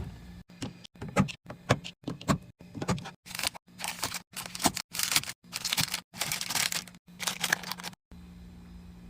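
Containers and packaged food being handled and set into a fridge: a quick run of clicks, taps and short rustles, over a steady low hum.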